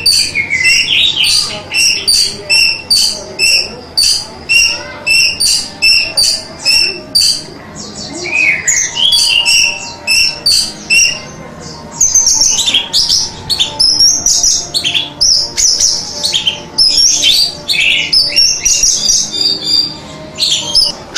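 Orange-headed thrush (anis merah) singing: first a run of short high notes about twice a second, then from about halfway a denser, varied warble of sliding phrases.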